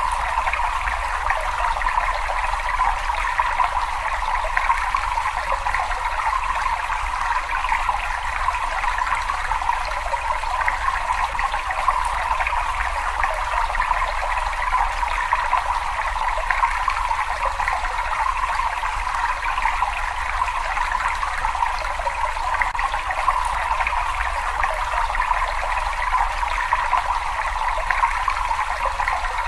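Cave water trickling and splashing steadily, with a steady low rumble underneath.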